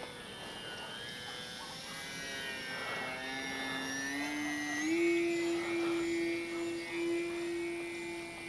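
Electric motor and propeller of an E-flite Sportix RC sport plane in flight, a steady whine that sits lower at first, then climbs in pitch in two steps about four and five seconds in as the throttle comes up, and holds there.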